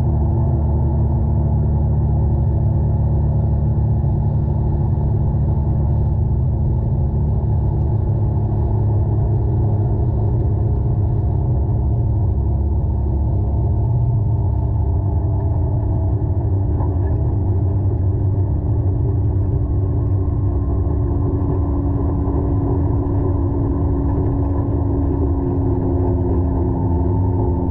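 Can-Am Maverick X3 side-by-side's engine running steadily, a loud low rumble whose pitch sags slightly through the second half. It is heard through a camera microphone whose port is clogged with mud.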